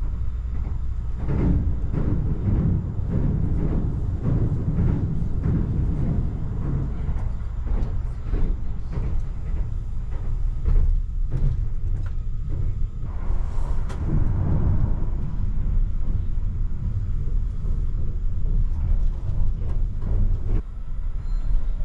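Cabin noise of a Kintetsu Hinotori electric limited-express train running at speed: a steady low rumble with frequent short knocks from the running gear and track. A brief rushing swell comes through about two-thirds of the way in.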